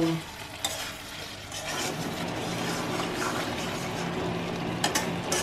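Chicken frying in masala in a wok on a medium flame, sizzling steadily, with a few short scrapes and taps of a spatula against the pan as it is stirred.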